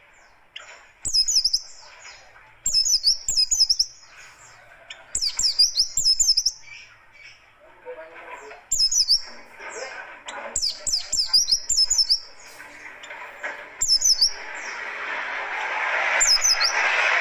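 White-eye (pleci buxtoni) singing in short, fast, harsh bursts of high twittering notes, the 'tembakan kasar' phrases that bird keepers prize, repeated every second or two. A rushing noise underneath grows louder in the last few seconds.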